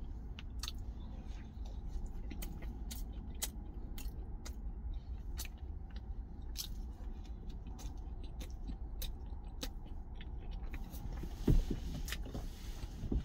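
Chewing a mouthful of thick rye-bread sandwich, with irregular small wet mouth clicks, over a steady low rumble in a truck cab. Near the end there is a louder knock as something is handled.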